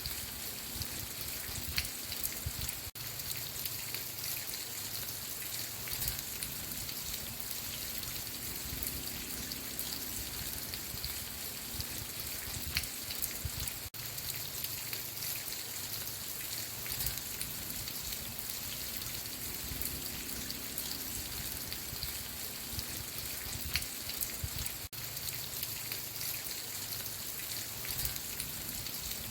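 Steady rain falling, with scattered drop patter over a constant hiss. The sound cuts out for an instant three times, about eleven seconds apart.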